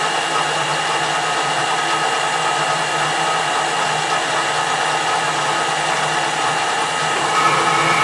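Metal lathe running steadily, its motor and gearing giving a constant hum with several steady tones, during a screw-cutting pass. It gets a little louder about seven seconds in.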